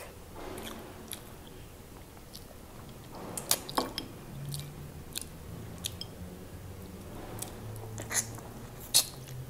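Close-miked mouth sounds of a person chewing pork sinigang and rice: soft wet chewing with scattered lip smacks and clicks, the sharpest about three and a half seconds in and again near the end.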